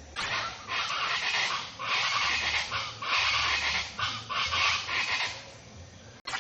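Birds singing and chattering in a string of harsh, dense phrases about a second each, with a low hum underneath; the sound drops out abruptly near the end.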